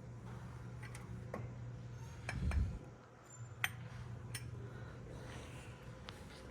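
Scattered light clicks and clinks of small objects being handled while browsing a market table, with a dull thump about two and a half seconds in, over a steady low hum.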